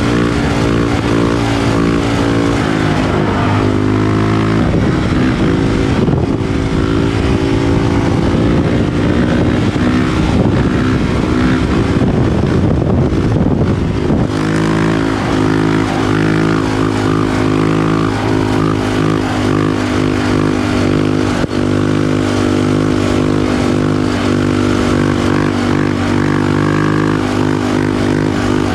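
Honda CRF450RL's single-cylinder four-stroke engine running under way through an FMF Power Core 4 exhaust with Megabomb header, held at a fairly steady engine speed. For several seconds in the middle, a wind rumble on the microphone partly covers the engine.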